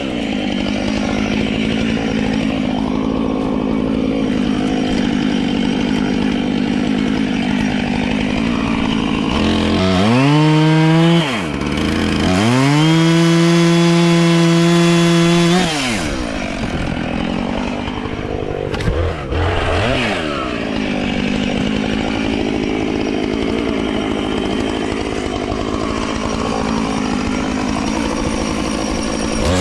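Chainsaw cutting through a fallen pine tree, its engine pitch held down under load in the cut. About a third of the way in it revs up freely twice, holding a steady high pitch for a few seconds, then drops back into the wood for the rest.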